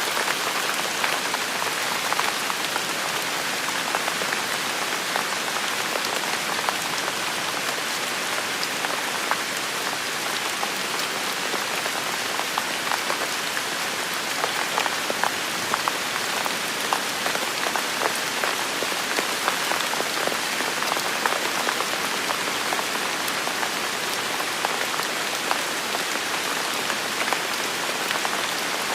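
Steady rain falling on hard surfaces, a dense hiss with many individual drops ticking and splashing close by.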